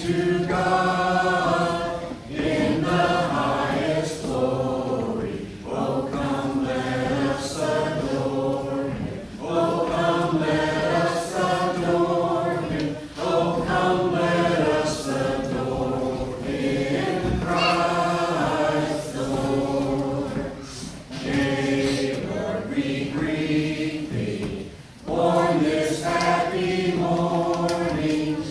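A church congregation singing a Christmas carol together, phrase by phrase with short breaks between lines.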